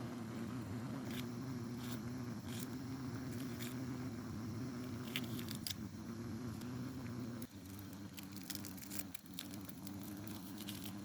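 A steady low engine-like hum with scattered sharp clicks over it; the hum drops and changes about seven and a half seconds in.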